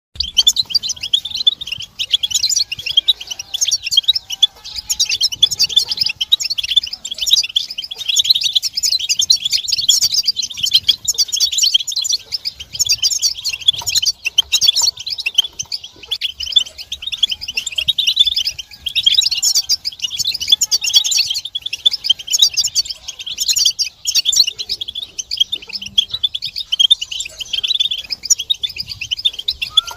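European goldfinches twittering and chattering in a dense, fast, high-pitched flurry of notes with only brief lulls: excited calls of the kind used to rouse silent male goldfinches into song.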